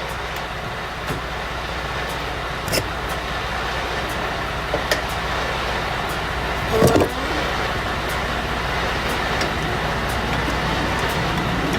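Steady running noise of a semi-truck, with a few sharp metallic clicks and a louder clank about seven seconds in, as the trailer's air lines and electrical cord are coupled.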